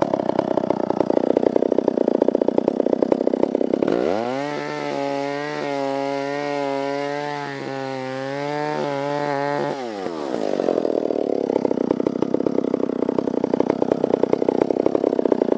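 Stihl 056 two-stroke chainsaw idling, then revved to full throttle about four seconds in and held there for about six seconds, its pitch wavering slightly as it works in the cut, before it drops back to idle.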